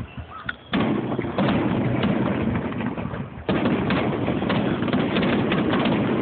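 Fireworks finale barrage: a dense, rapid run of bangs and crackles that starts suddenly under a second in, eases slightly around the three-second mark, then comes back just as thick.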